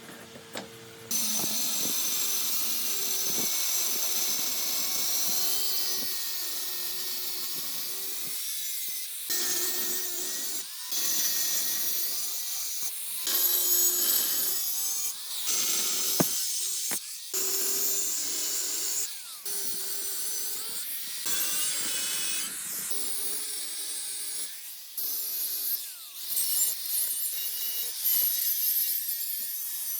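A handheld power tool worked against a part in repeated passes: a steady motor hum under a high scraping hiss. It stops and starts again many times with short breaks.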